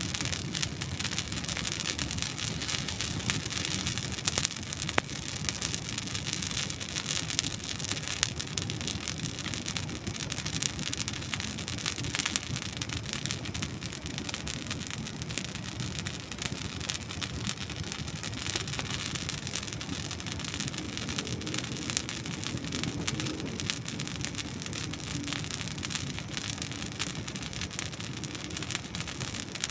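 Wood campfire burning, crackling with many small snaps over a steady hiss, and a few louder pops, one about five seconds in.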